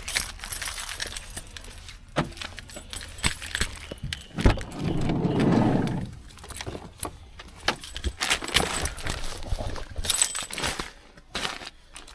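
Small metal items jangling and clinking, with scattered knocks and rustling, a hard thump about four and a half seconds in and a burst of rustling right after it.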